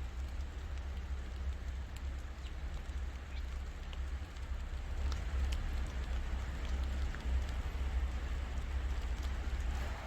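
Steady rain falling, with scattered drops tapping close by, over a constant low rumble.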